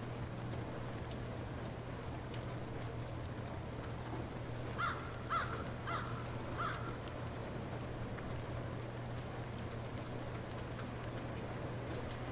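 Light rain falling steadily, with a bird calling four times in quick succession about five seconds in.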